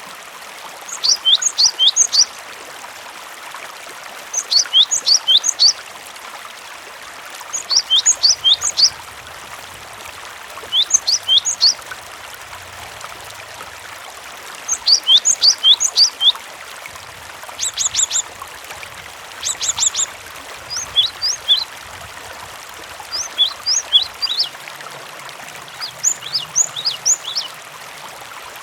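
Cinereous tit (gelatik batu) singing: short bursts of three to five quick, high, sharp notes, repeated every two to three seconds, over the steady rush of running water.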